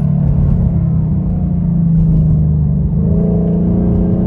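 The Ford Mustang GT's 5.0 V8 running at steady cruise, heard from inside the cabin as a low, even drone over road noise. A second, higher steady tone joins about three seconds in.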